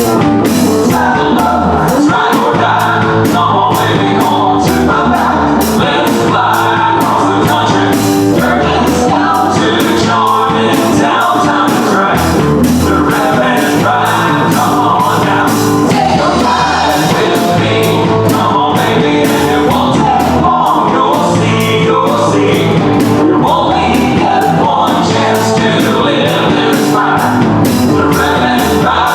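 Live band playing a song with a singer over a drum kit's steady beat.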